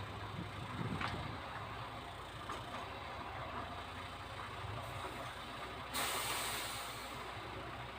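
MAN TGX tractor unit's diesel engine idling steadily. About a second in there is a brief clunk. About six seconds in, a sudden loud hiss of compressed air from the truck's air brake system fades out over about a second.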